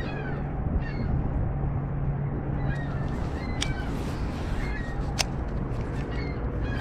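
Birds calling over and over with short falling squeals, over a steady bed of wind and water noise. A low steady hum runs through the first half, and a few sharp clicks come in the middle.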